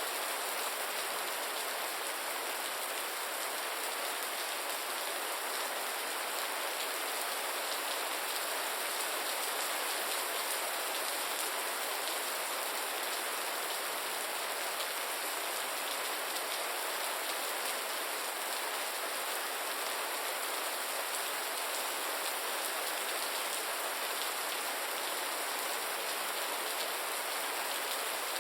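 Gentle rain falling steadily: an even hiss with a fine patter of drops that does not change.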